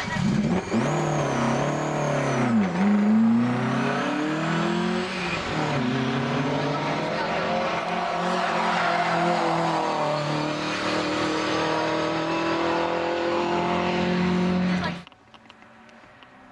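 Rally car engine driven hard: its note dips sharply early on as the car slows, then climbs and holds high as it accelerates away, and cuts off suddenly near the end.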